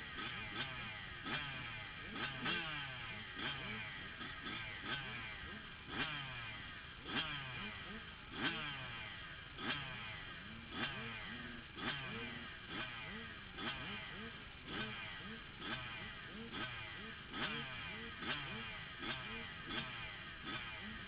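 Several motocross bikes revving hard and shifting gears, each engine note climbing and then dropping about once a second, with the notes of different bikes overlapping.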